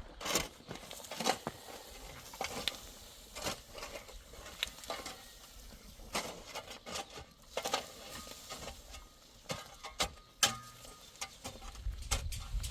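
Irregular scraping, tapping and clicking of hand tools and material during masonry repair work on a wall, with a sharp knock about ten seconds in.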